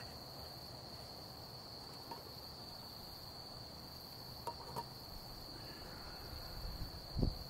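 Crickets trilling in one steady, unbroken high tone, with a couple of faint clicks midway and a low thump near the end.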